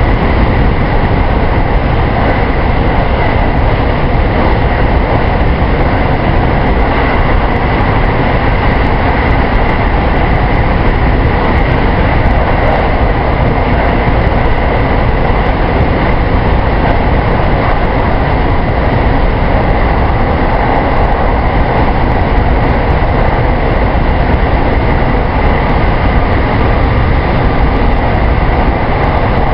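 Steady running noise of a JR 223 series electric multiple unit heard from inside the train at speed on the Kosei Line: continuous wheel and rail rumble with a faint steady whine.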